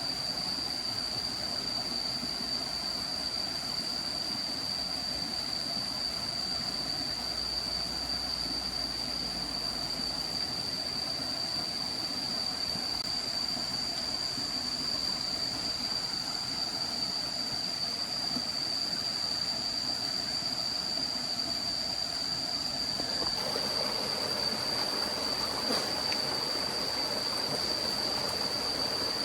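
Steady forest ambience: an even rush of running water under a constant high-pitched tone, with the water sound getting fuller about 23 seconds in.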